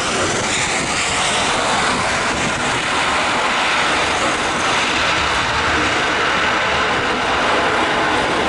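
Twin CFM56 jet engines of a Boeing 737-900ER coming in to land, a loud steady rush of engine noise.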